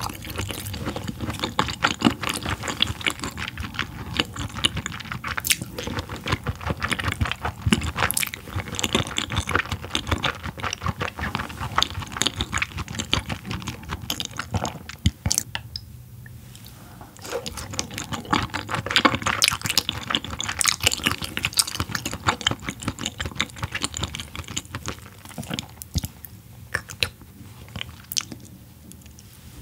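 Close-miked chewing of raw yellowtail sashimi: wet, sticky mouth sounds made of many small clicks. There is a brief lull about halfway through and another near the end.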